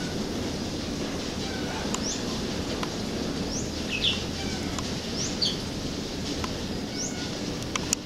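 Birds calling in the open: short, sharp chirps repeated every second or so over a steady low background hum.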